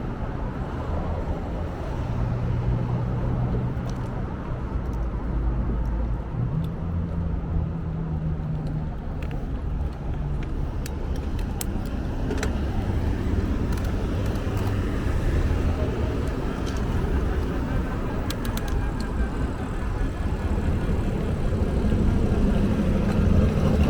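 Steady low rumble of a motor vehicle on the move, with a shifting engine tone and a few faint clicks about halfway through.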